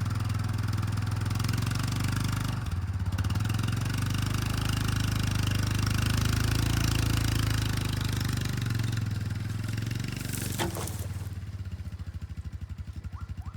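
Yamaha Rhino side-by-side UTV engine running hard under load as it pulls an old bathtub out of the ground, with a single sharp knock about ten seconds in; the engine then drops back near the end.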